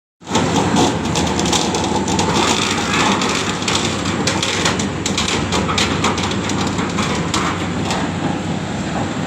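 Boat's engine running steadily with a dense mechanical clatter.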